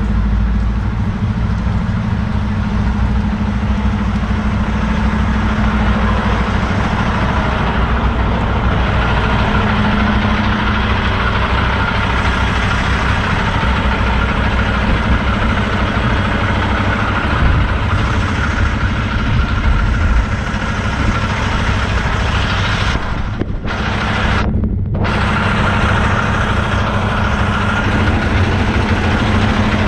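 Semi-truck diesel engine running steadily at a low, even speed. The high end briefly drops out twice, about two-thirds of the way through.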